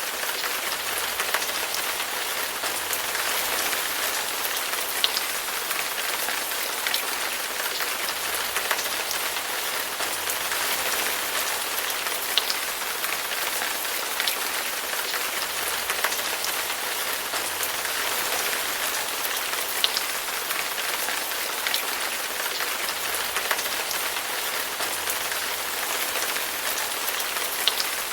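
Steady rain falling on a surface: a continuous, even hiss with scattered louder drops ticking through it every second or two.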